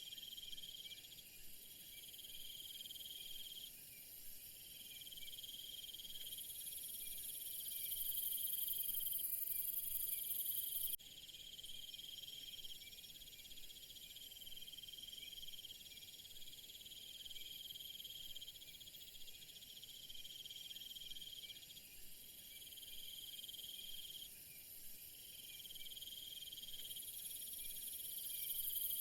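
Insect chorus: several steady high-pitched trills overlap, and one lower trill starts and stops every few seconds. A very high buzz swells and then cuts off suddenly about eleven seconds in, then builds again near the end.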